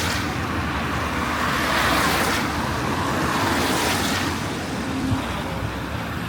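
Road traffic passing on a rain-wet road: a steady tyre hiss that swells as vehicles go by, loudest about two seconds in.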